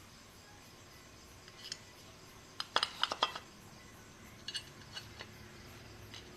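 Small metal pieces clinking and tapping together in short clusters: several sharp clicks close together about three seconds in, and a few more around five seconds.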